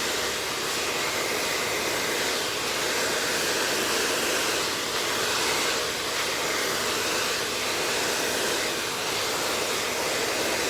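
Conventional handheld blow dryer running steadily on medium heat, a constant rush of air blowing through hair.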